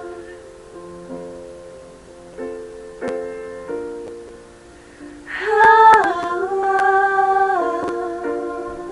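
Music: soft acoustic chords struck about once a second, then a woman's voice comes in about five seconds in with one long held sung note, dipping slightly in pitch, before the chords carry on alone.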